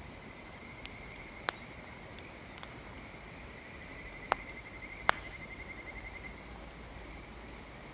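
Wood fire crackling, with four sharp pops, two of them loudest about four and five seconds in, over a steady high insect trill like crickets that pulses quickly for a couple of seconds in the middle.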